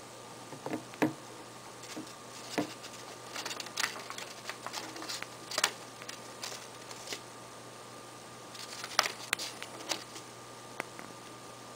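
Cockatiel's beak nibbling and clicking on a plastic remote control and its buttons: irregular small clicks and taps, busiest in the first half and again near the end.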